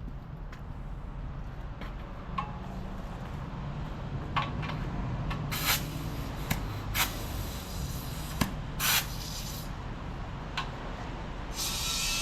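Compressed air hissing in several short blasts, then a steady rush of air starting near the end, as air is fed into a truck tire to seat its bead; a low steady rumble runs underneath.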